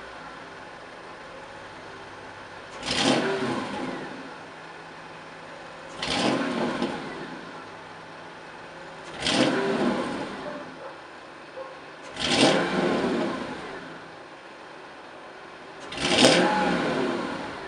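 Mercedes S500 W220's V8 idling and blipped five times, each rev rising quickly and dropping back to idle, through a custom exhaust with the middle silencer removed and a second catalytic converter.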